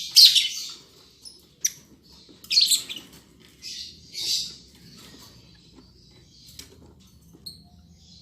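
Lovebirds giving harsh, raspy calls in about five loud bursts over the first five seconds, with a few sharp clicks between them.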